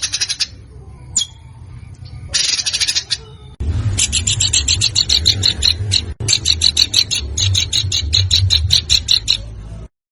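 A songbird's harsh, rapid calls: a short burst at the start and another about two and a half seconds in, then from about three and a half seconds a long run of fast repeated high notes that stops abruptly near the end. A low hum lies underneath.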